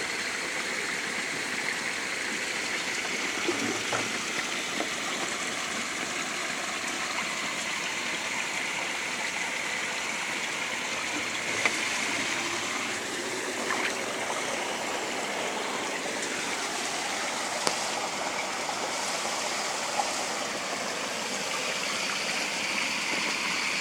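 Spring water running steadily down a stream, with a few faint clicks.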